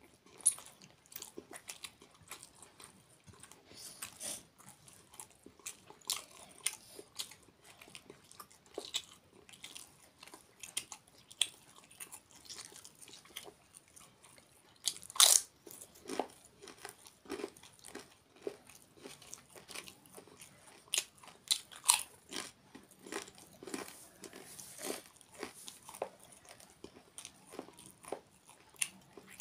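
Close-up eating sounds of a man eating with his hands: chewing, with short crunches from biting a crisp papad. The loudest crunches come about halfway through.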